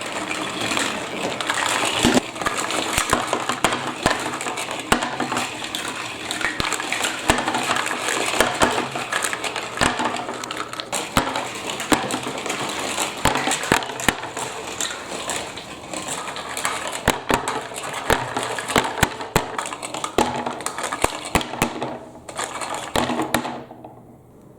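Marbles rolling and clattering through a plastic block-and-magnet marble run with water flowing down it: many quick clicks and knocks over a steady rush of water, falling quiet near the end.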